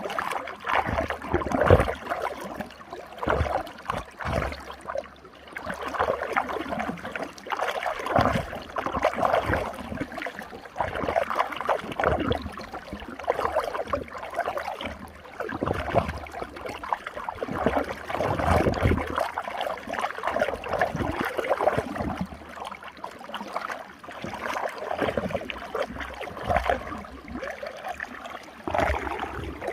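Running water swirling and gurgling in a whirlpool, a continuous splashing rush that surges unevenly.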